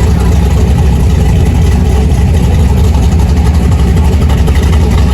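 Car engine idling close by, a loud steady low rumble that pulses rapidly.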